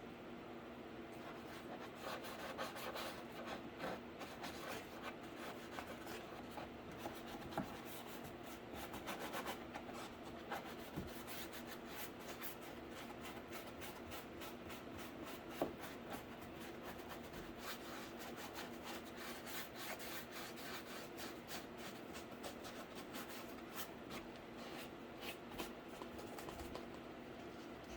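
Paint being brushed onto cardboard: a long run of short rubbing, scratching strokes over a faint steady hum.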